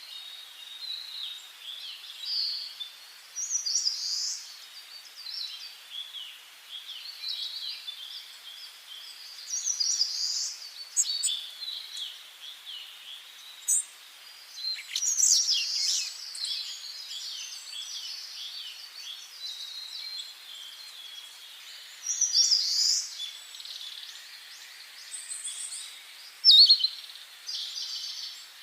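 Several wild songbirds singing at once: a continuous run of short, overlapping chirps and song phrases, high-pitched, with a few louder calls standing out now and then.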